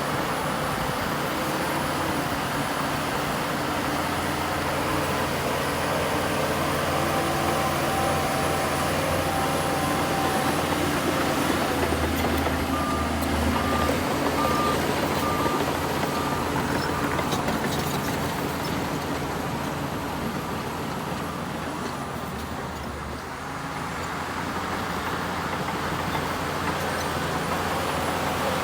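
Heavy diesel earthmoving machinery running steadily under load. From about 13 to 16 s a reversing alarm gives a string of short, evenly spaced beeps, about two a second, as a machine backs up.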